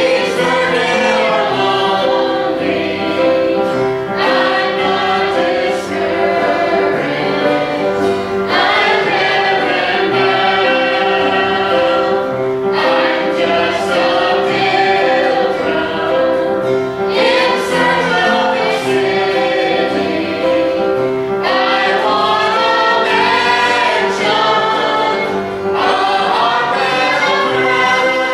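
Church singers performing a gospel song in harmony, with instrumental accompaniment holding steady notes underneath.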